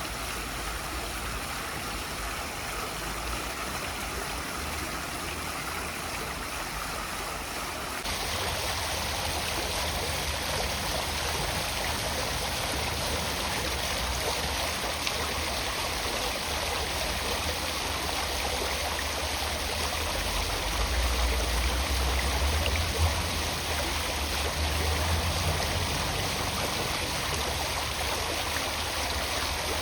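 Steady rushing noise with a low rumble underneath; its tone shifts slightly about eight seconds in, and the rumble grows stronger later on.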